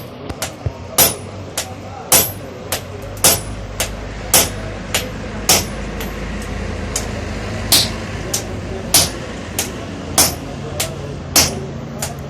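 Blacksmith's hammer striking metal on an anvil, a heavy blow about once a second with lighter taps between, each with a short sharp ring. A low hum runs underneath for a few seconds in the middle.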